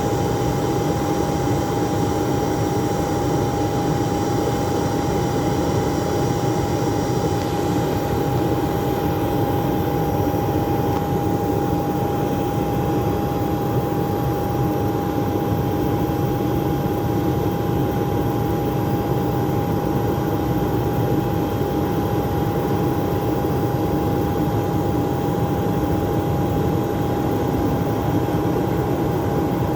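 Airbus A400M's four turboprop engines and propellers droning steadily, a constant whine held over a dense rumble with no change in pitch or level.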